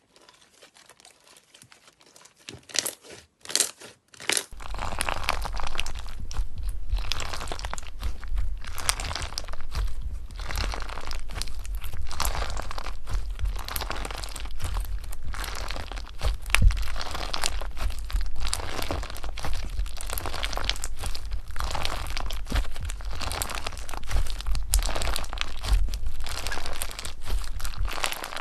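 Crunchy slime being squeezed and worked: a few faint clicks, then from about four seconds in dense, continuous crackling and crunching over a low rumble.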